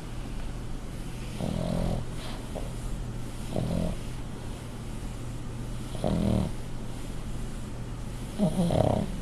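A sleeping pug snoring: four snores about two seconds apart, the last the loudest and longest, with a wavering pitch.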